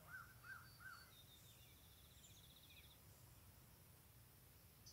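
Near silence outdoors with faint birdsong: a few short arched notes in the first second, then a rapid high trill lasting about two seconds.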